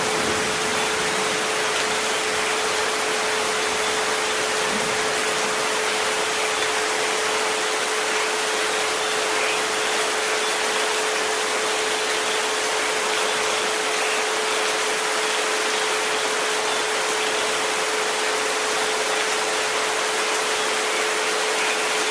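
Steady rain hiss with a continuous pure tone near 432 Hz held beneath it, and a fainter second tone just above.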